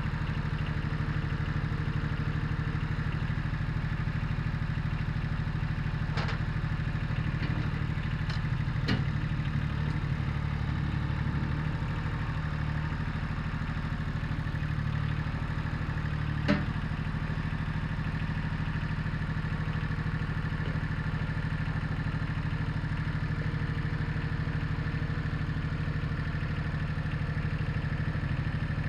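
Satoh Mitsubishi compact tractor engine running at a steady speed, with a few sharp knocks or clanks, the loudest about two-thirds of the way through.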